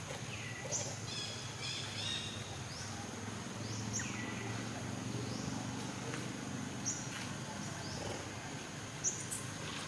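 Outdoor forest ambience: a steady high insect drone, with short, falling high-pitched chirps every couple of seconds and a quick run of warbling bird-like notes about a second in.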